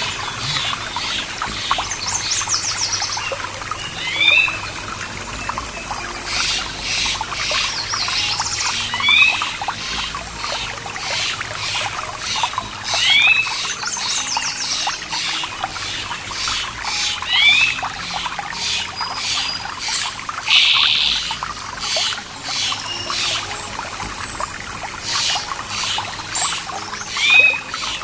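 Running water from a stream or small waterfall, with birds singing over it: a short rising call repeats every few seconds, alongside quick high chirping trills.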